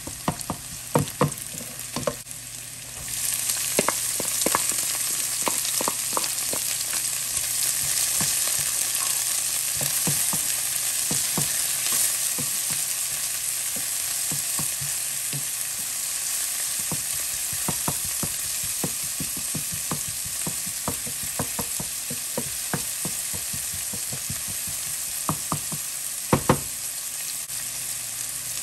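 Sliced onion and diced red bell pepper frying in oil in a stone-coated frying pan, with a wooden spoon stirring and clacking against the pan. About three seconds in the sizzle jumps suddenly louder, as the diced pepper goes into the hot oil.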